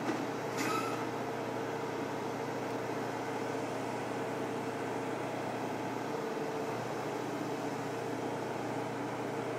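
A train standing on the track below, humming steadily as it idles, with one short high-pitched squeal just under a second in.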